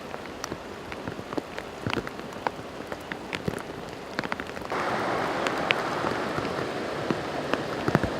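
Rain falling, with many sharp ticks of single drops striking close by. The rain noise grows louder and fuller a little past halfway.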